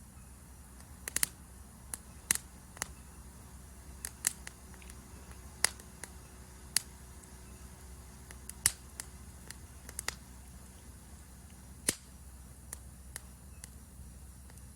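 Wood campfire crackling, with sharp irregular pops every half second to two seconds over a steady high insect hum.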